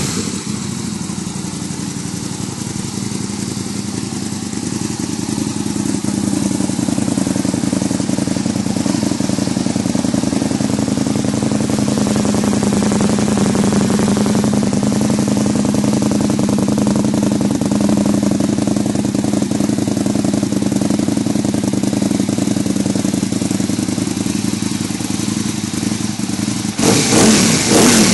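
Aprilia Tuono motorcycle engine idling steadily through its exhaust, growing a little louder over the first few seconds, then revved briefly near the end.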